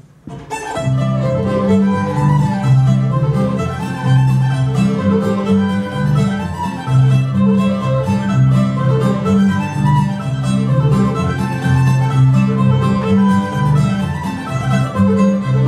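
Old-time string band of fiddle, mandolin, guitar and upright bass starting a fiddle tune together about half a second in, the bass steady underneath the quick fiddle melody.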